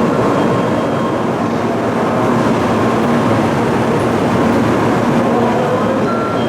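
Steady rushing noise of a train, with a faint humming tone running through it.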